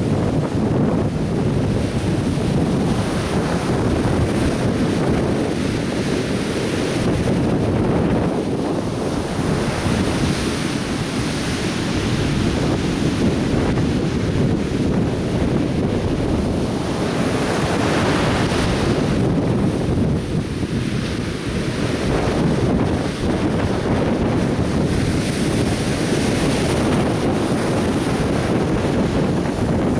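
Atlantic Ocean surf washing steadily onto a beach, with one wave breaking more brightly a little past the middle. Wind buffets the microphone throughout.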